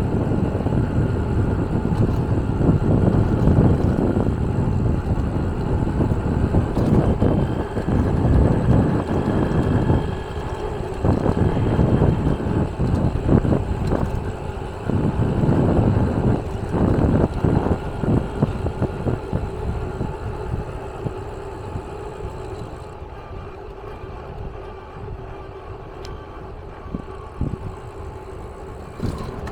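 Vehicle running, a rumbling noise that rises and falls and eases off in the last third, with a faint steady hum.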